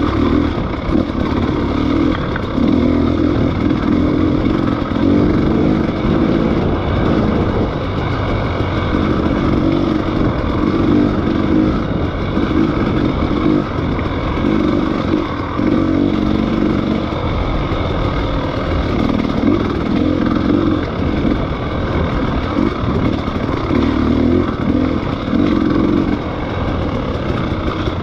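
Dirt bike engine running while riding, the throttle opening and easing off every second or so.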